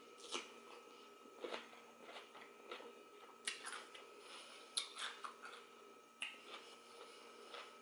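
Faint, close-up crunching of a raw cucumber being bitten and chewed: short crisp crunches about every second, with a faint steady hum under them.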